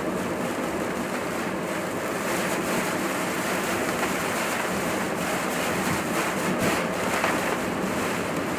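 Steady rushing noise of a car driving through typhoon wind and rain: tyres on a wet road and wind against the car, sped up to double speed.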